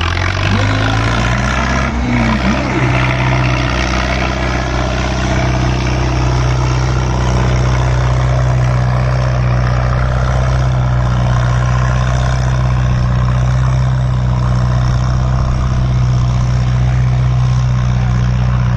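Antique tractor engine running hard and steady under heavy load while pulling a weight sled. Its pitch rises slightly in the first second, then holds.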